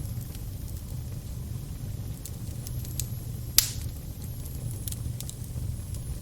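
Fire crackling over a steady low rumble, with scattered sharp pops and one louder pop about three and a half seconds in.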